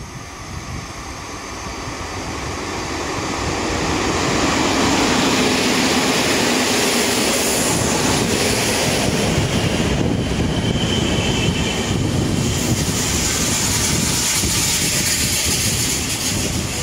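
An EP07 electric locomotive hauling a passenger train into the station. The sound grows louder over the first few seconds as it approaches, then the coaches roll past with steady wheel-on-rail noise. A brief high squeal comes about ten seconds in.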